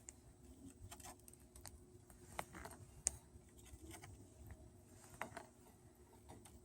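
Faint, scattered small plastic clicks and taps as instrument-cluster bulb sockets are pried and twisted out of the cluster's back with a small screwdriver; the sharpest click comes about three seconds in.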